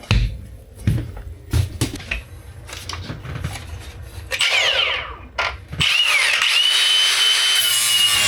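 Cordless angle grinder with a worn disc: a few handling knocks, a short burst about four seconds in that winds down, then from about six seconds it spins up and runs with a steady high whine.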